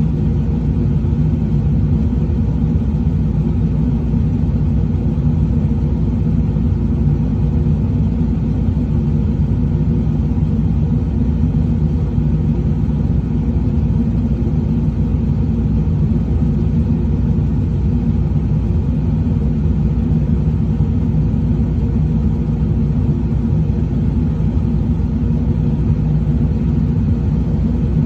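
Truck engine running steadily, a low rumble that holds the same pitch and level throughout.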